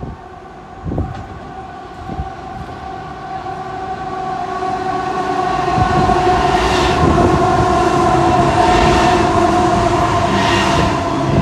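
Diesel freight locomotive running as it approaches and passes beneath, its steady engine tones growing louder through the first half, then the rumble of the coal hopper wagons following it, with a hiss that swells every couple of seconds.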